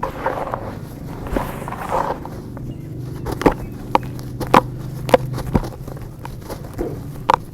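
Dry dirt clumps crumbling and crunching, with a gritty crackle and several sharp cracks as the chunks break.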